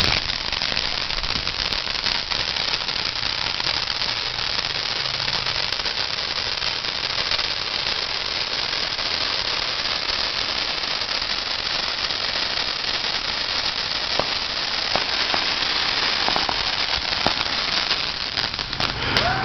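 Fireworks board going off: a dense, unbroken crackle of firecrackers at an even level, with a few separate sharper pops in the last few seconds.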